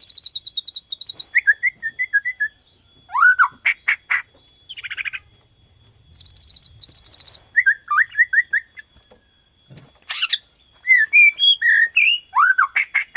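Bornean murai batu (shama) singing full-out, phrase after phrase: fast high trills, slurred whistled notes and sharp clicking strokes, with short pauses between phrases.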